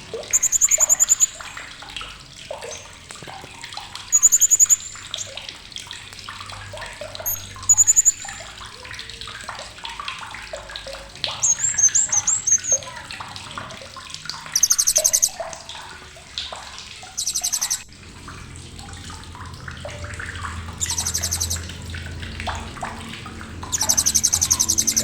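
Blue-crowned hanging parrot (srindit) giving sharp, very high, rapid chattering trills of about a second each, repeated about eight times, over a busy background of softer, lower chirps and noise.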